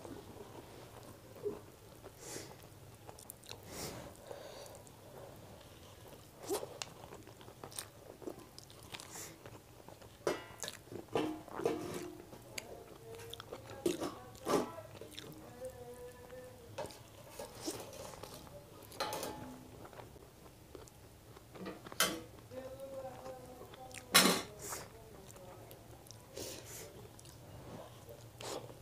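Close-miked mouth sounds of a person eating chicken biryani by hand: chewing and wet lip smacks, with irregular sharp smacks and clicks, the loudest about 24 seconds in.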